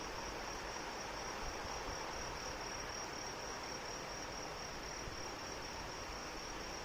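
Steady rain with an insect trilling over it: one high, evenly pulsed note that never stops.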